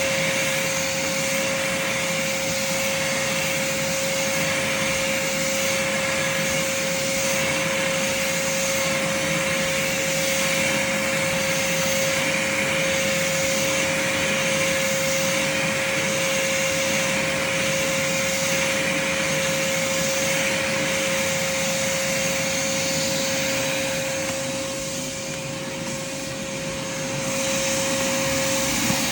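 Craftsman shop vac running steadily while vacuuming, a constant motor whine over the rush of air. About 24 seconds in the sound drops and dulls for a few seconds, then comes back to full strength.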